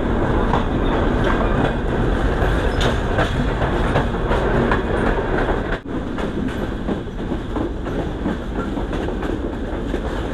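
Sundarban Express passenger train running along the track, heard from on board: a steady rumble with the wheels clacking over the rail joints. The sound dips briefly about six seconds in.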